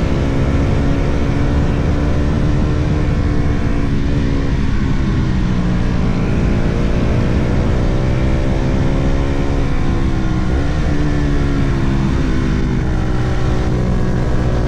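Sport motorcycle engine running hard under way, its pitch dropping and climbing again a few times as the rider shifts gears and gets back on the throttle.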